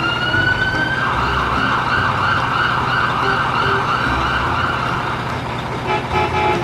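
Siren: a rising wail that breaks into a fast warble about a second in, then drops away and starts a new rising wail near the end.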